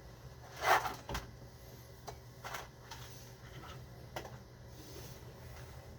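A few scattered light knocks and brief rustling clatters in a small room, over a steady low hum.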